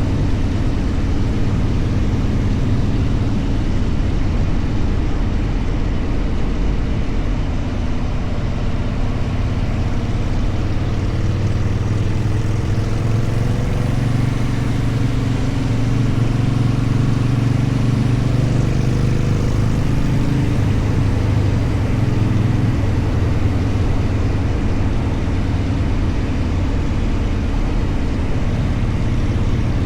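Motorcycle engine running under way, with wind and road noise. The engine note rises and falls somewhat in the middle as the speed changes, then settles.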